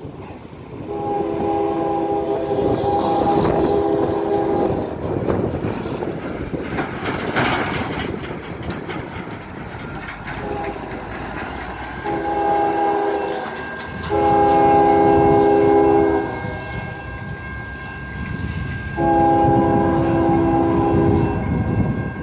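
Freight locomotive's multi-chime air horn sounding a series of blasts: a long one about four seconds, then a brief one, a shorter one and two longer ones near the end. Between the blasts there is the steady rumble and wheel clatter of the passing train.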